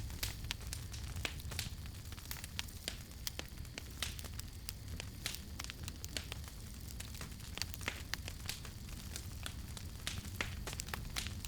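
Campfire burning, wood crackling and popping in quick irregular snaps over a steady low rumble of the flames.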